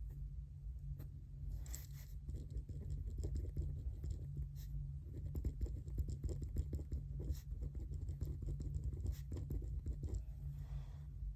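Pen writing on paper: a quick run of short scratchy strokes for most of the stretch, stopping about a second before the end, over a steady low hum.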